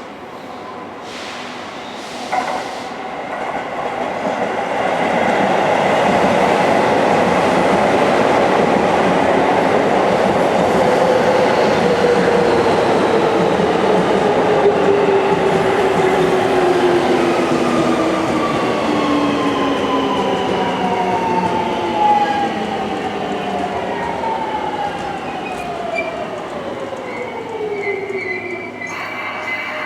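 Seibu Railway electric commuter train running into the station, with rail and wheel noise and a motor whine of several tones sliding steadily down in pitch as it brakes to a stop.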